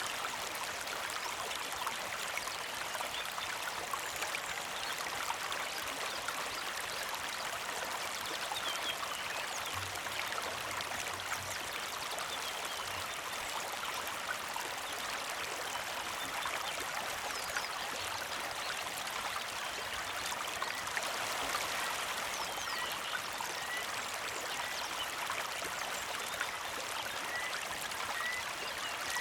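Small creek flowing and trickling steadily over rocks. A bird chirps faintly in short repeated notes through the last third.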